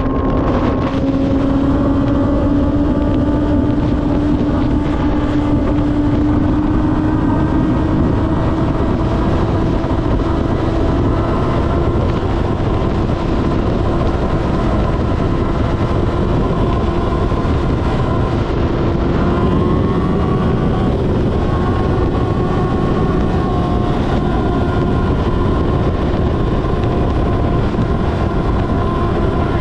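Kawasaki ZX-6R's inline-four engine running under steady load while riding, its pitch climbing slowly and evenly, over a constant rush of noise.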